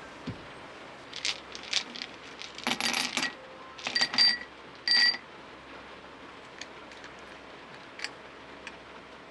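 Small hard objects clicking and clinking as they are handled, in a busy cluster over a few seconds; the last two clinks ring briefly, like glass or metal, and a few faint ticks follow. Steady rain hiss continues underneath.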